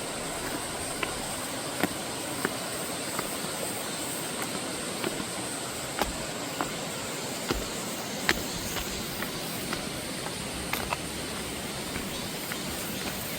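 Mountain stream rushing steadily, with a constant high drone of cicadas above it and scattered sharp clicks.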